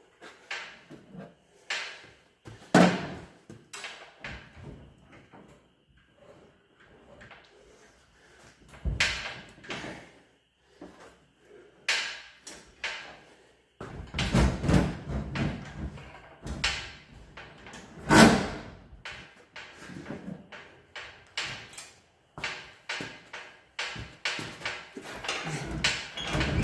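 Irregular metal clunks, knocks and scrapes as the engine and transmission are worked into the car's engine bay. The loudest knocks come about 3 s in and about 18 s in, with a busy run of clanking between them.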